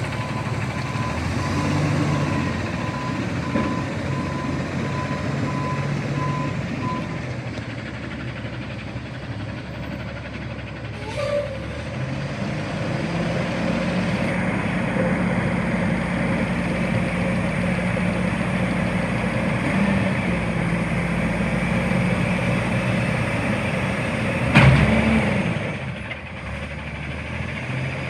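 CNG front-load garbage truck running, its reversing alarm beeping for the first seven seconds or so. About twelve seconds in the engine rises in pitch and holds there. A sharp, loud burst comes near the end.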